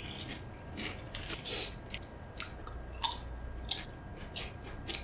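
Potato chips being chewed: a string of crisp, irregular crunches, the loudest about a second and a half in.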